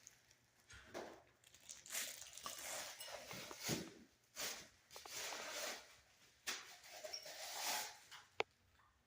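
Irregular rustling and crinkling of handled material in short bursts, with one sharp click near the end.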